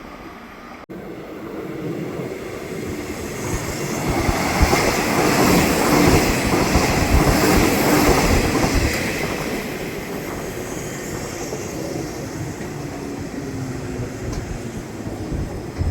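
Electric commuter train passing on the Nishitetsu Tenjin-Ōmuta Line, growing loud about five seconds in with wheel clatter over the rail joints, then slowly fading as it moves away.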